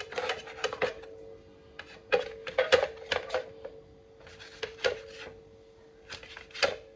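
Kitchen knife chopping a frankfurter on a cutting board: irregular clusters of quick taps, with short pauses between them.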